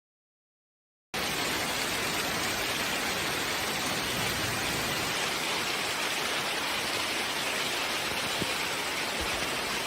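Steady rain falling, an even hiss that starts abruptly about a second in.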